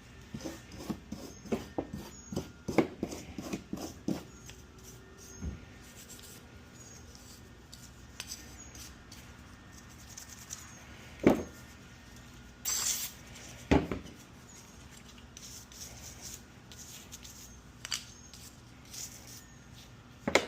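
A toothbrush scrubbing grime off a small engine's housing: quick scratchy strokes for the first few seconds, then scattered clicks and rubbing. Two sharp knocks and a brief hiss come between them in the middle.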